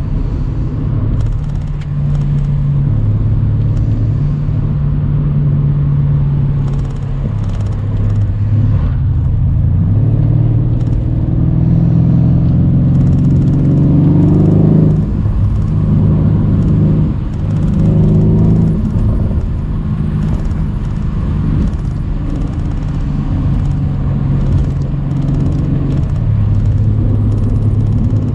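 Mercedes-AMG C63's 4.0-litre twin-turbo V8 pulling the car along a country road. Its pitch rises under acceleration from about twelve seconds in and falls sharply near fifteen seconds, rises again and falls near nineteen seconds, then the engine runs steadily.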